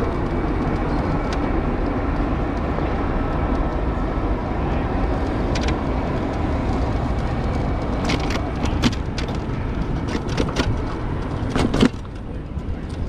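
Steady rushing road and traffic noise heard from a moving electric motorbike, heaviest in the low end. A handful of short sharp clicks and knocks come in the last few seconds, the loudest just before the rushing noise drops a little.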